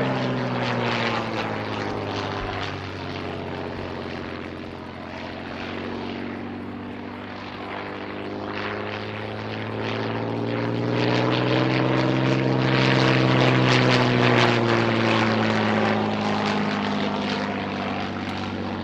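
The supercharged Rolls-Royce Kestrel V12 engine of a Hawker Fury I biplane running through a display pass. It grows louder to a peak about two-thirds of the way in, then fades, its pitch sliding as the aircraft passes.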